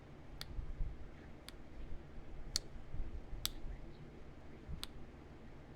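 Heat-treated chert point being flaked: about five sharp, separate clicks, roughly a second apart, as small flakes snap off the stone.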